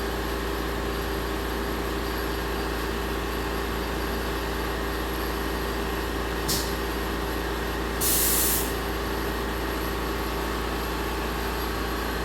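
Haas VF-2SS vertical machining center running its spindle warm-up cycle at 2,500 rpm: a steady hum with several held tones. Past the middle comes a brief hiss, then a longer, louder hiss of under a second.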